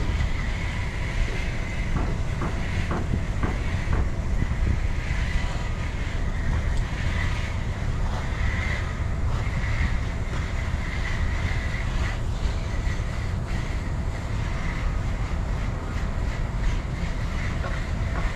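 A car's engine idling with a steady low rumble, heard from inside the car, with a few faint clicks about two to four seconds in.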